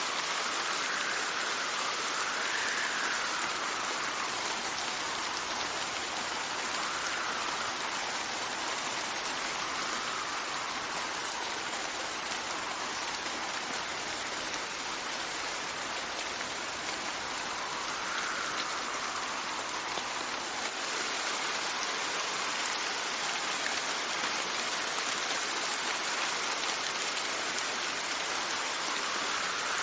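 Steady rain falling, with wind gusts that swell and fade, rising and falling in pitch every few seconds.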